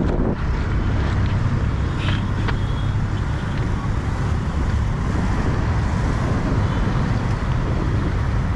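Steady roadside traffic noise, a continuous low rumble of passing vehicles, with wind buffeting the microphone.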